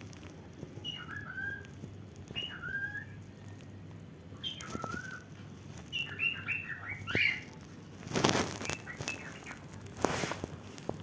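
Cockatiel giving short, clipped chirps: single calls spaced a second or two apart, then a quick run of about five near the middle. Two louder rustling or hissing bursts come near the end. The bird is agitated.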